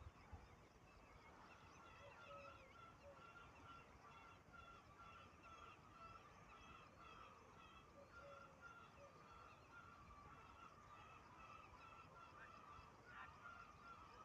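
Faint bird calls: short notes of the same pitch repeated steadily about twice a second, with a few fainter higher notes mixed in.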